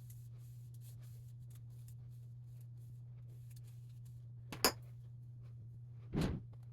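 A steady low hum, with one sharp click about four and a half seconds in and a dull knock near the end.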